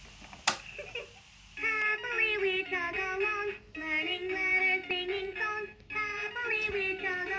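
A VTech ride-on toy train's sound unit playing an electronic children's tune of short, stepped notes. A sharp click about half a second in comes before it, and the tune starts about a second later.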